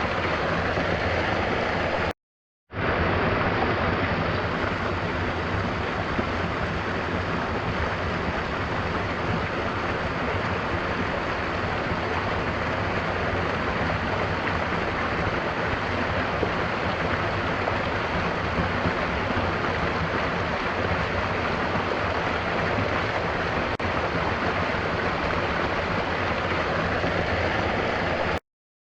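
Steady rushing water of a waterfall, an even wash of sound that cuts out to silence for about half a second about two seconds in and again near the end.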